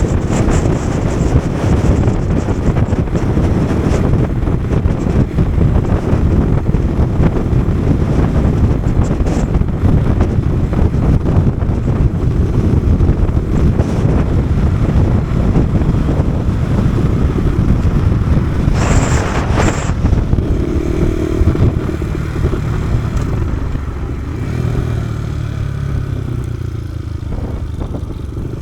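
Kawasaki KSR110's small single-cylinder four-stroke engine running while riding, under heavy wind buffeting on the microphone. About twenty seconds in the rush eases and the engine note comes through more clearly, its pitch shifting.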